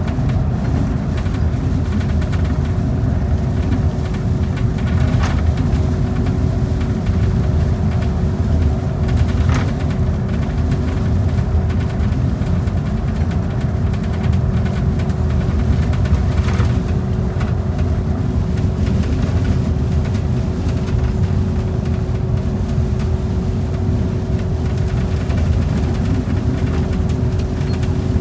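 Steady low rumble of a transit bus's engine and tyres at cruising speed, heard from inside, with a steady hum over it and a few faint rattles.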